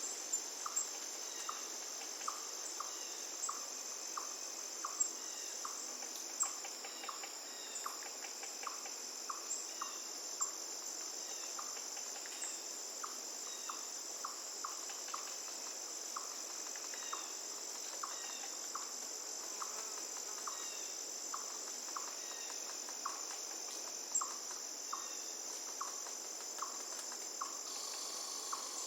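Steady high-pitched trilling of insects such as crickets, with a short call repeating about twice a second, over a faint even rush of flowing river water.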